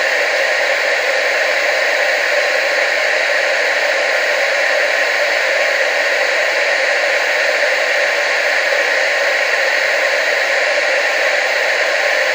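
TV static: a steady, even hiss with no changes, with little in the deep bass.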